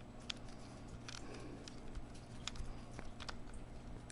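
Faint, scattered small ticks and a brief soft scrape of a screwdriver turning a small screw into a laptop's battery, fastening the last of the battery's four screws.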